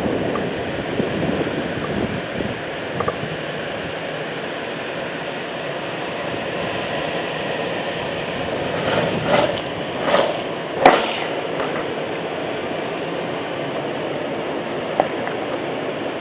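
Rain falling steadily in a thunderstorm, an even rushing hiss, with a few short sharp knocks and splashes in the middle, the sharpest a crack about eleven seconds in.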